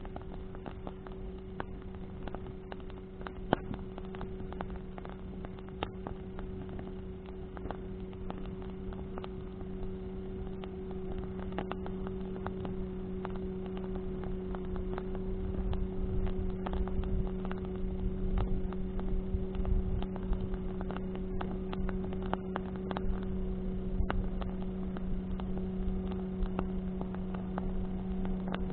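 Bonfire burning, the wood crackling with irregular pops, one sharp pop about three and a half seconds in. A steady low hum runs underneath, and wind rumbles on the microphone in gusts from about halfway on.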